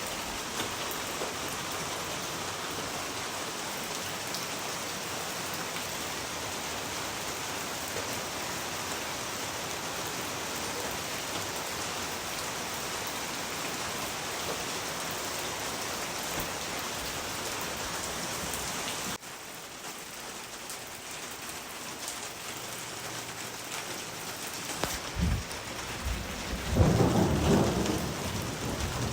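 Steady rain, an even hiss, that drops suddenly to a softer rain about two-thirds of the way through. In the last few seconds thunder rumbles low, with a couple of short thuds and then a longer, louder roll.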